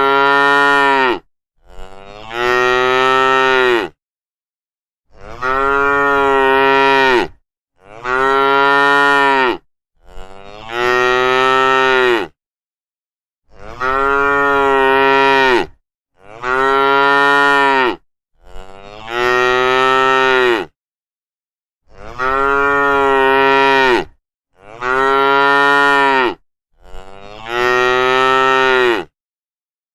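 Cow mooing again and again: about eleven long, similar calls of some two seconds each, every two to three seconds, with complete silence between them.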